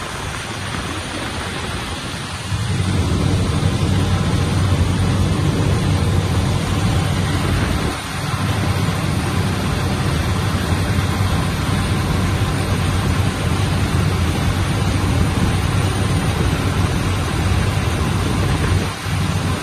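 Aircraft engine and cabin noise: a steady low drone under a broad rushing hiss, growing louder about two and a half seconds in, with brief dips near the middle and near the end.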